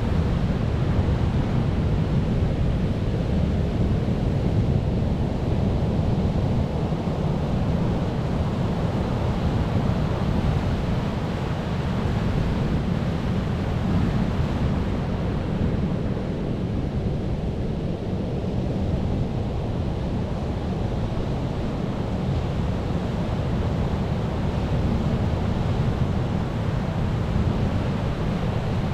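Sea waves washing on a shore: a steady, deep rushing noise that slowly eases off and builds again.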